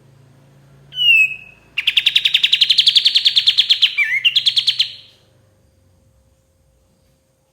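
Kapas tembak songbird singing: a short falling whistle about a second in, then a fast, even trill of about ten notes a second, broken once by a short downward note before it picks up again and stops about five seconds in.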